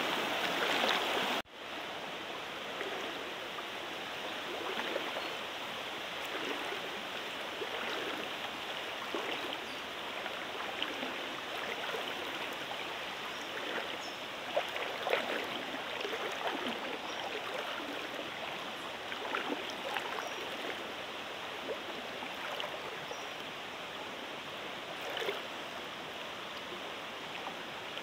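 Swift jungle stream water rushing steadily, with a brief dropout about a second and a half in.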